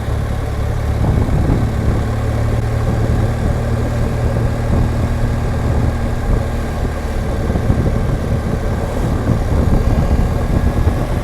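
BMW R1200GSA boxer-twin engine running steadily while the motorcycle is ridden along at a constant pace, with a continuous rushing noise over the low engine note.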